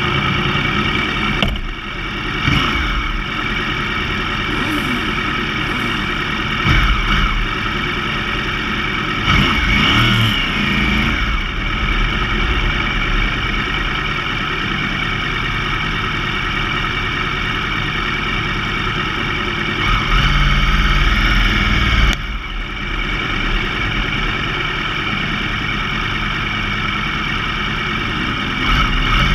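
Motorcycle engines idling while rolling at walking pace: the crossplane Yamaha R1's inline-four among other sportbikes, the revs rising briefly a few times.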